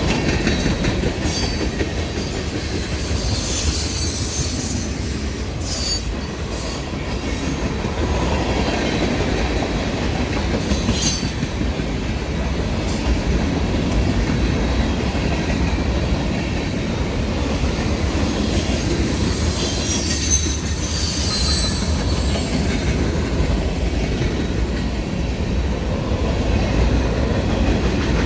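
Railroad cars rolling past in a steady rumble, with brief high-pitched wheel squeals a few times.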